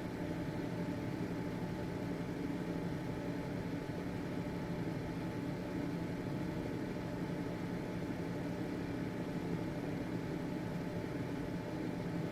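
Household exhaust fan running steadily: an even motor hum with a few steady tones over airflow noise.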